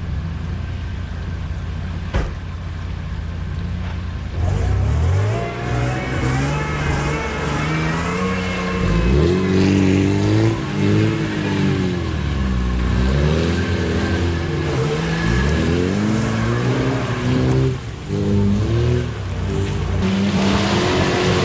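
Off-road vehicle engine, at first running at a steady low rumble with a single sharp click about two seconds in. From about four seconds in it revs up and down again and again, the pitch repeatedly rising and falling.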